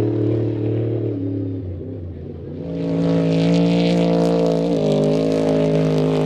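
Racing trophy truck engine running at high, steady revs. It eases and drops in level about two seconds in, then comes back loud about half a second later, with a brief dip in pitch near five seconds before it settles again.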